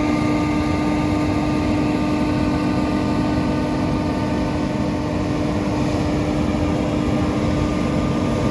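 John Deere rotary combine harvester running steadily while cutting spring barley: an even machine drone with a constant hum, no change in pitch or load.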